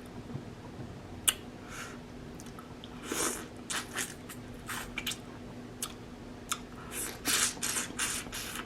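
Close-miked wet chewing and lip-smacking of a person eating a saucy seafood boil: irregular short smacks that come thick and fast in the second half, with one sharp click about a second in.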